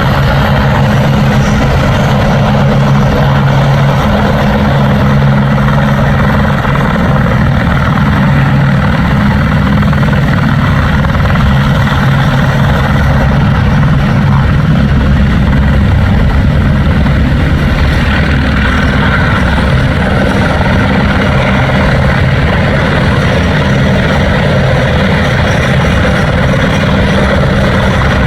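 Helicopter running close by: a loud, steady rotor and engine noise with a low hum.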